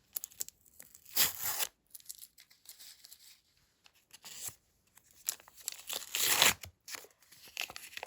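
A small paper packet being torn open and its paper crinkled by hand, in short rustling bursts, with the loudest tear about six seconds in.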